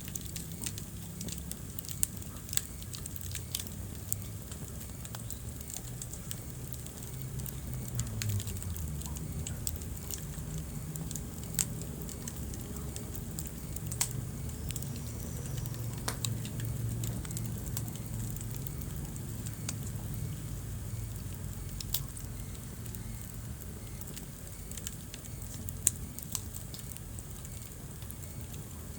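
Wood fire burning in a fireplace: a low steady rumble of flames with scattered sharp crackles and pops from the burning logs.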